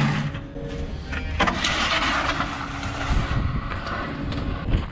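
A vehicle engine running with a steady low rumble, under noisy rattling and a few knocks.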